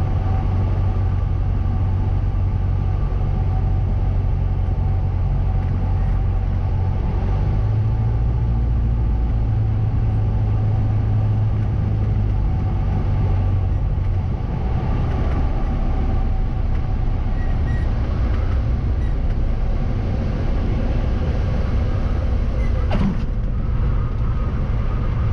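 Cessna 172's piston engine and propeller droning steadily, with one sharp click near the end.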